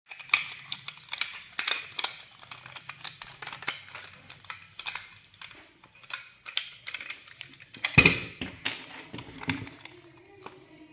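Small toys being handled and knocked about, with irregular light clicks and clatter and one louder knock with a low thud about eight seconds in.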